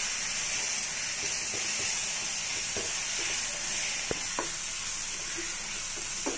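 Chopped tomatoes, shallots and spice powders sizzling in hot oil in a nonstick pan while a spatula stirs them. A few sharp clicks of the spatula against the pan come in the second half.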